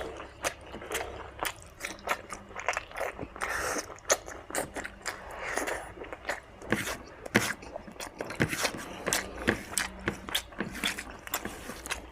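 Close-up mouth sounds of someone eating spicy mutton fat with rice and gravy: chewing and lip-smacking as a steady run of irregular clicks and smacks.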